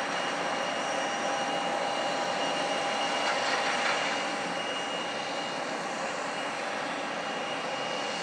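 Airliner engines running: a steady rush of noise with a high, even whine over it. It swells slightly three to four seconds in, then eases off a little.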